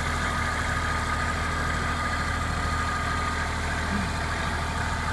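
A big tractor's engine running steadily at an even, unchanging pitch.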